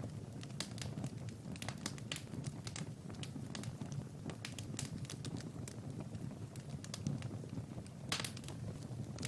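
Wood fire crackling in a fireplace: irregular pops and snaps over a low, steady rumble, with a quick cluster of snaps near the end.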